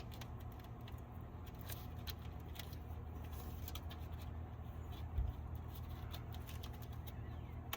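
Light scattered clicks and scratches of hands handling engine-bay parts and wiring clips, with a single thump about five seconds in, over a low steady hum.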